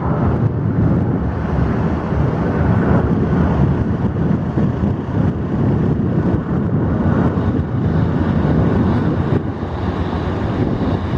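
Jet aircraft engine noise, a steady loud rumble, mixed with wind buffeting the microphone.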